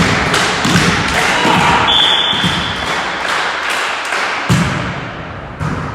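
Volleyball play in a gym hall: a run of sharp knocks and thuds over a loud crowd din, with a short whistle about two seconds in.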